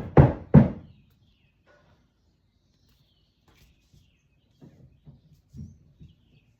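Faint, scattered bird chirps in the background, with a few soft low thuds in the second half.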